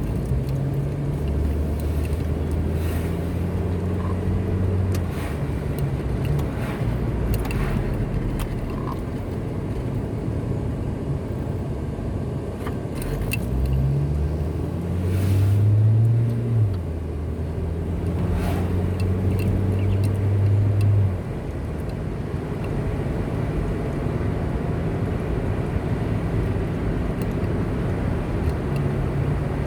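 A car driving on a road: steady tyre and road noise under a low engine note. About halfway through, the engine note climbs as the car speeds up, holds for a few seconds, then drops back.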